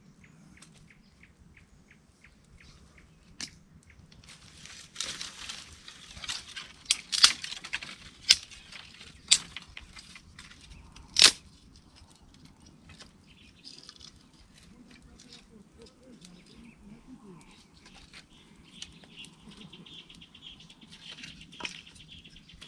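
Dry rustling with a run of sharp snaps and cracks, the loudest about eleven seconds in, then quieter with birds chirping in the background.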